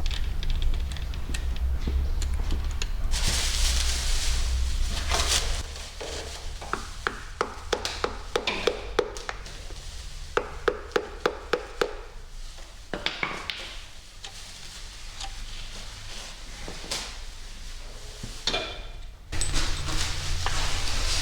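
A run of sharp knocks in the middle, a few a second, each with a short metallic ring. They are a piston and connecting rod being tapped out of the bore of a Nissan RB engine block.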